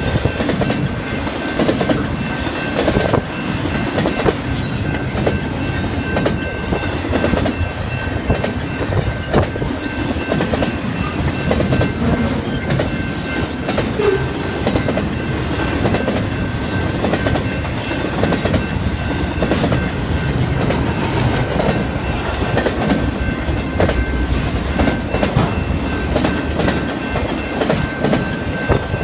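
Freight train cars rolling past, steel wheels clicking and clattering over the rail joints in a continuous rumble, with a faint steady high squeal.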